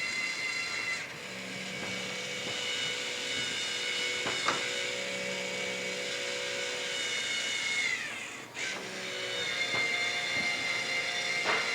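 A steady, high-pitched mechanical whine of several tones, with a few light clicks. The pitch sags and slides down briefly about eight seconds in, then comes back.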